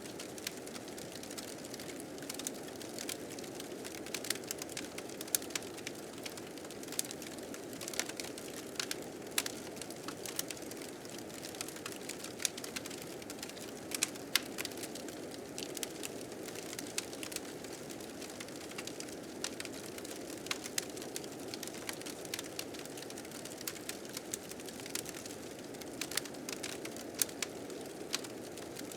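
Fire crackling with frequent sharp pops and snaps, over a steady rushing blizzard wind.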